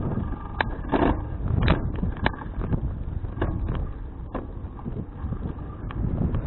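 Wind buffeting an action camera's microphone during a bicycle ride, a low rumbling rush, with scattered sharp clicks.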